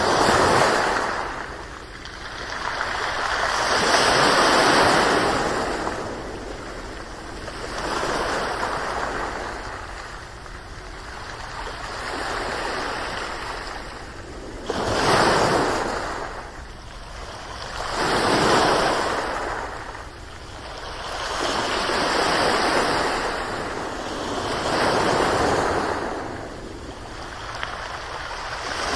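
Ocean waves breaking and washing onto shore, one after another, each surge swelling and fading over a few seconds, about eight in half a minute.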